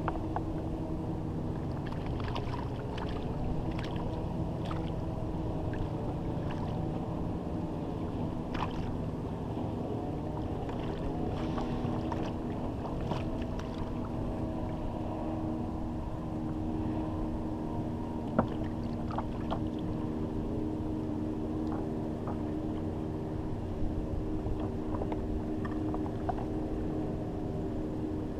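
Water lapping and small splashes and knocks against a kayak on the bay, over a steady low hum. A sharper knock comes about 18 seconds in.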